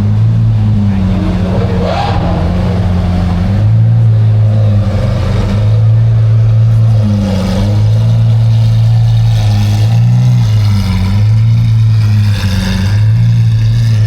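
A car engine running loudly with a deep, steady note, its pitch dipping and wobbling briefly a few times.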